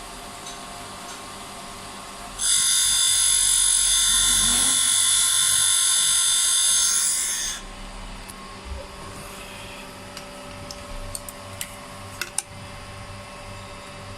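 A small high-speed power tool starts about two seconds in, runs for about five seconds with a steady high-pitched whine, then stops. A few light clicks and taps follow near the end.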